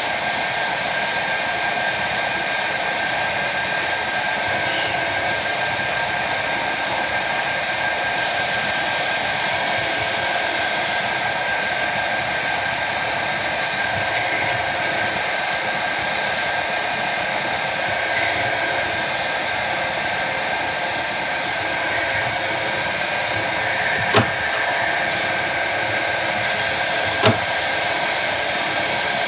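Jet TL-25 lathe running steadily, a whirring noise with a constant whine, with two sharp clicks near the end.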